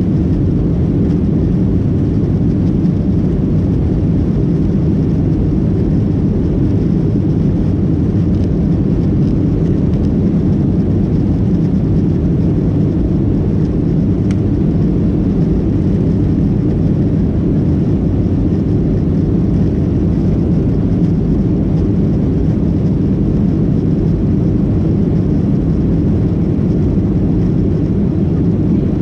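Steady cabin noise inside a Boeing 737-800 heard from a rear window seat: a loud, even low rumble of its CFM56 jet engines and airflow.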